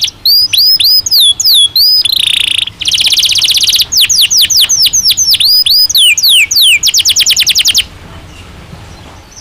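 Domestic canary singing: a phrase of repeated swooping notes, a fast trill, a series of quick falling whistles and another rapid trill, then the song stops abruptly about eight seconds in.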